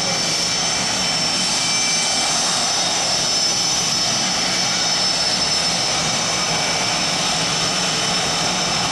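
Jet aircraft engines running steadily: a constant high whine over a steady rushing roar.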